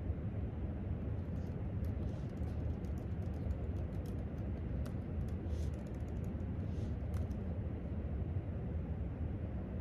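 Quick, light clicks of typing on a laptop keyboard, in an irregular run that stops about two seconds before the end, over a steady low room rumble.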